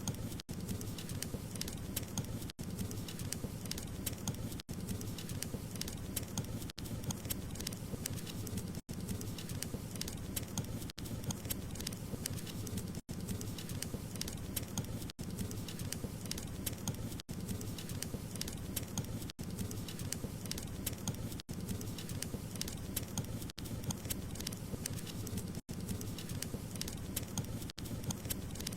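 Wood fire crackling, many small pops and snaps over a steady low rumble, with a very brief dropout about every two seconds.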